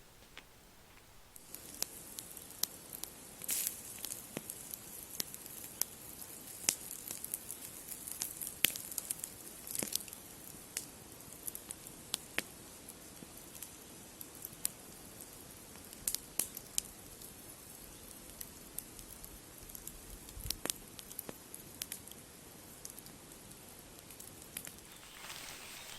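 Wood campfire crackling and popping irregularly over a steady hiss, starting suddenly about a second and a half in.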